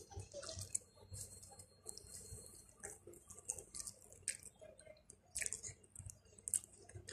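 A person chewing food with the mouth closed: an irregular run of soft wet mouth clicks and smacks with faint low thuds.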